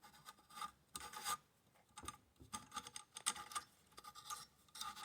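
Short, irregular scraping and rubbing strokes of metal rifle parts being worked together by hand during an AR-15 lower receiver assembly, around the buffer tube and takedown-pin detent.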